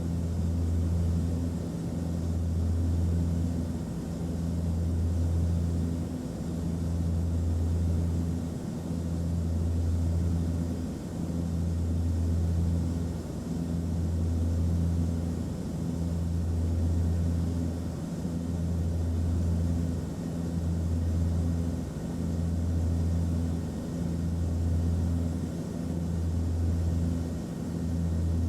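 Airplane cabin noise: a steady low engine drone that swells and fades in a slow, regular beat about every two seconds.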